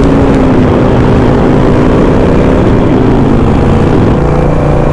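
Motorcycle engine running steadily at road speed, with heavy wind rush on the rider's microphone.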